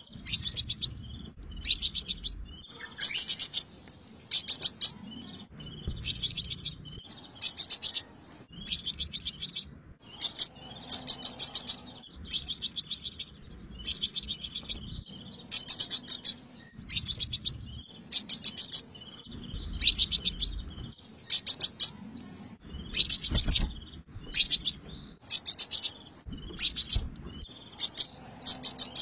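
Sunbird calling: short bursts of rapid, high, sharp chirping notes, repeated about once a second with brief pauses between them.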